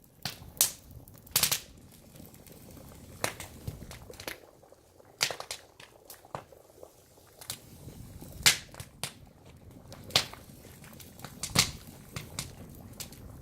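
Oak firewood crackling and popping in a fire, sharp irregular cracks every second or so over a low steady hiss.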